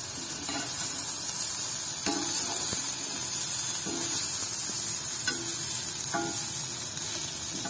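Athalakkai (small bitter gourds) frying in oil in a pan, a steady sizzle, with a few stirring strokes of the spoon now and then. They are cooked without any water and are about half browned.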